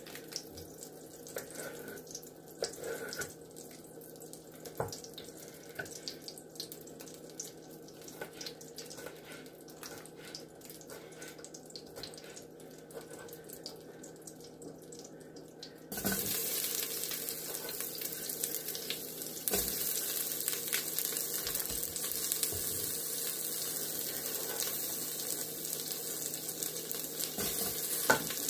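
Faint scattered clicks and knocks of kitchen work, then, past halfway, a sudden steady sizzle that steps louder a few seconds later: food frying in the Instant Pot on its sauté setting.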